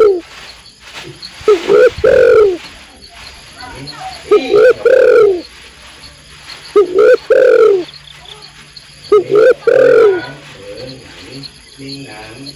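Spotted dove cooing: a female's repeated multi-note call phrase, given four times at even intervals of about two and a half seconds.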